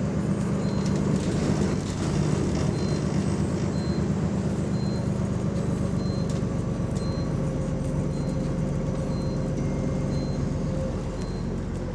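A bus's diesel engine running steadily with an exhaust leak. A short high beep repeats about once a second over it.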